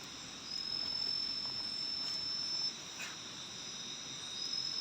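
Forest insects singing: high, steady trills, one of them starting about half a second in, breaking off midway and starting again near the end, over a second unbroken trill.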